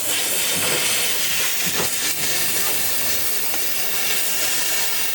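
A steady, loud hiss of compressed air from a pneumatic tool working on the car door, unbroken throughout.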